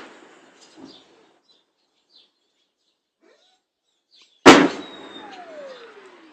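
Faint bird chirps, then about four seconds in a single loud shell explosion, its boom rumbling away. A whistle follows, falling steadily in pitch over about a second and a half.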